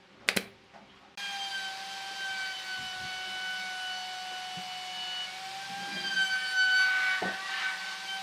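A sharp click, then about a second later an electric power tool motor starts suddenly and runs with a steady high whine. The sound grows louder and rougher for a moment near six to seven seconds as the tool works wood.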